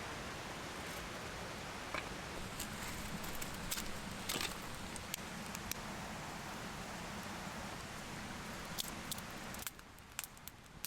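Wood campfire crackling, with scattered sharp pops over a steady rushing background. Near the end the background drops away and the pops come quicker.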